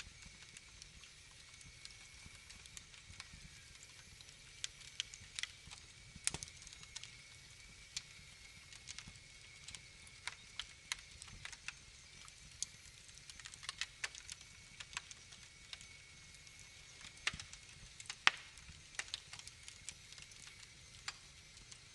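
Wood fire in a fireplace crackling: irregular sharp pops and snaps over a faint hiss, with the loudest pop about eighteen seconds in.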